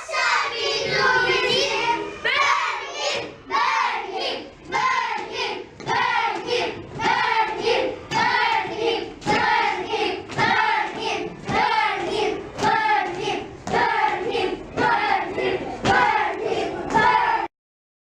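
A group of children singing or chanting together in a steady rhythm, with hand claps on the beat. It stops abruptly near the end.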